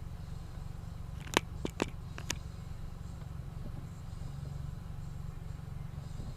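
Steady low rumble inside a stationary car, with a quick run of four or five sharp clicks about a second and a half in.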